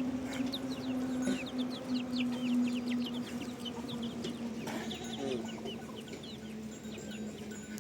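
Chickens: a stream of quick, high, falling chirps with a few lower hen clucks, over a steady low hum.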